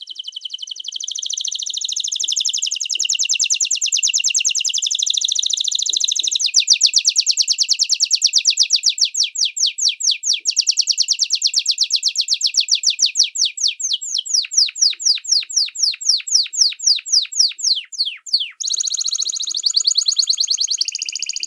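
A songbird singing a long, high trill of rapidly repeated sweeping notes. The notes slow and space out near the middle, break off briefly, then resume as a fast trill near the end.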